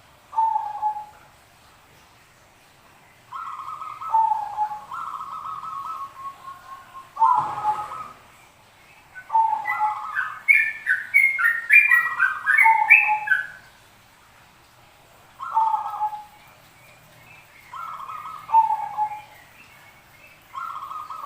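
Zebra doves (perkutut) cooing in repeated short phrases, with a busier stretch in the middle where several birds' higher, quicker notes overlap. A short thump sounds about seven and a half seconds in.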